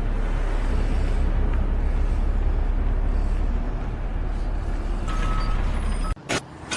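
Steady low rumble of a running vehicle engine, which cuts off abruptly about six seconds in, followed by a couple of sharp clicks.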